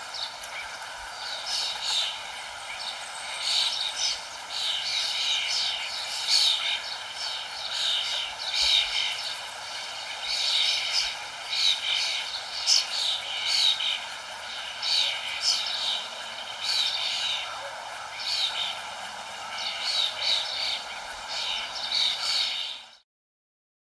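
Many birds chirping in quick, repeated high calls over a steady rushing background noise; everything cuts off suddenly near the end.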